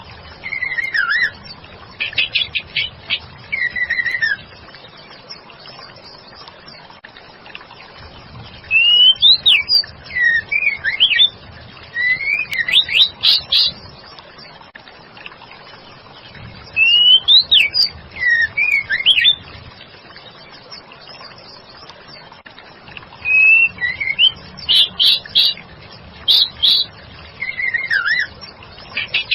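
Female white-rumped shama calling in full voice: bouts of quick sweeping whistles and sharp chirps, four groups broken by pauses of a few seconds.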